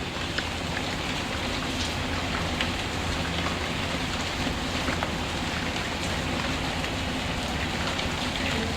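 Steady rain falling, with many scattered small ticks of drops and a steady low rumble beneath.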